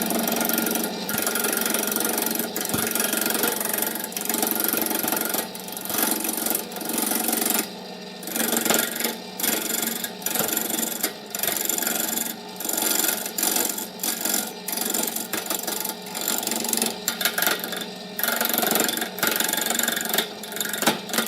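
A power tool working wood: a steady motor hum under rough scraping and rasping that comes and goes in short passes.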